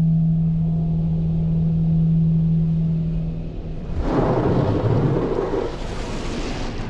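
Automatic car wash heard from inside a truck: a steady machine hum with a low tone. About four seconds in it gives way to a loud rushing hiss as the wash's spray or air blast hits the truck.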